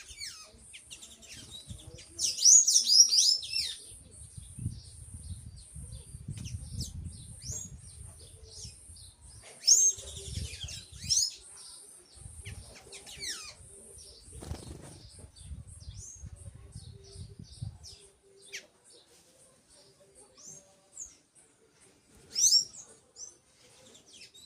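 Small birds chirping in quick clusters of high, rapid chirps, loudest a couple of seconds in and again around ten and twenty-two seconds in, over a faint, continuous high pulsing buzz. A low rumble runs under the middle part.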